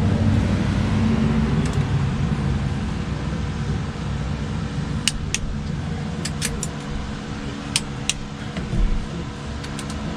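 Sharp metallic clicks from hand tools working the cylinder-head bolts, a few single clicks and pairs in the second half, over a steady low hum.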